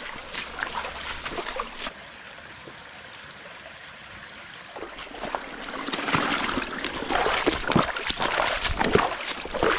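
Shallow river water trickling over rocks, with louder, irregular splashing and sloshing of footsteps through the water from about halfway through.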